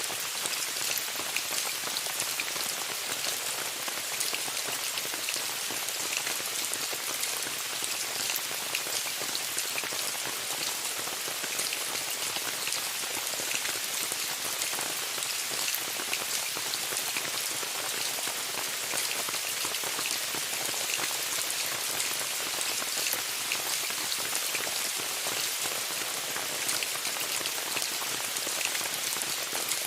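Steady rain pattering on a tent's fabric, a dense hiss of many small drop taps with no let-up.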